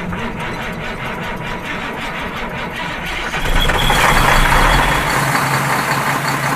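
A vehicle engine running with a steady pulsing beat, getting louder for a couple of seconds about halfway through.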